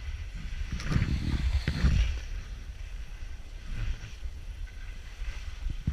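Skis sliding and scraping over snow in uneven swishes, with wind buffeting the microphone as a low rumble.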